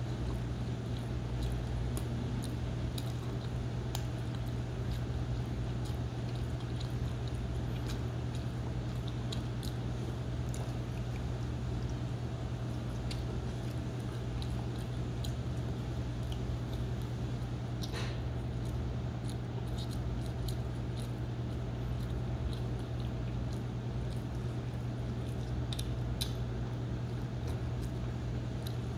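Close-up eating sounds: biting into and chewing pizza, with small scattered crunches and wet chewing noises, over a steady low hum.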